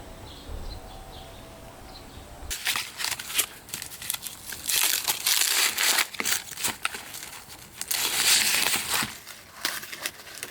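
Corn husks and leaves crinkling, crackling and tearing in repeated bursts as corn is handled. The sound begins about two and a half seconds in.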